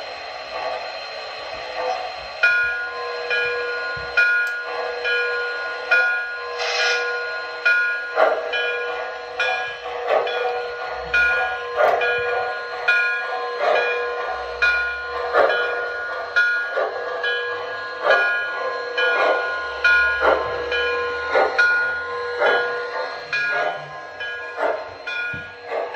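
MTH Proto-Sound 2.0 sound system of a model Nickel Plate Road 599 steam locomotive, playing a steady rhythm of steam chuffs about every 0.7 seconds while a bell rings along with it, as the engine moves to couple onto its cars. A short burst of hiss comes about a quarter of the way through.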